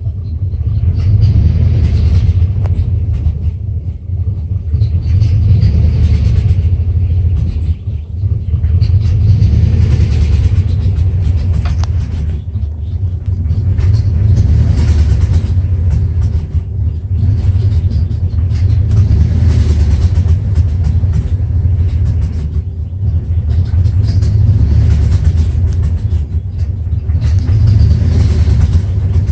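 1994 Dodge Ram 5.9L engine idling rough, a steady low rumble that swells and sags unevenly every few seconds. The rough running comes from a failing crankshaft position sensor.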